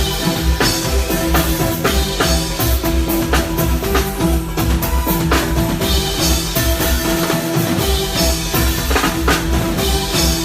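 A live band playing with a full drum kit, bass drum and snare hits over a steady bass line and sustained keyboard or guitar notes.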